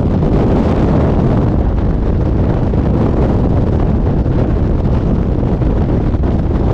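Loud, steady rush of wind blasting across a skydiver's camera microphone.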